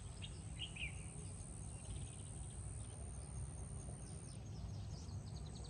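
Faint natural outdoor ambience: a steady high insect drone and scattered bird chirps over a low rumble, with a quick run of ticking chirps near the end.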